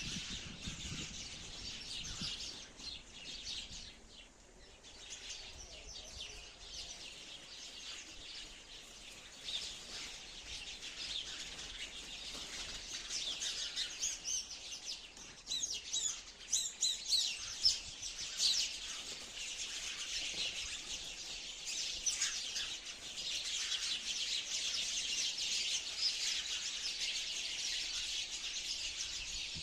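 A flock of sparrows chirping at once: a dense, unbroken chatter of short high chirps that grows louder from about halfway through.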